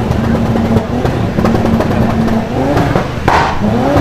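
Loud engine of a modified car held at steady revs, with the pitch rising and falling in the last second or so.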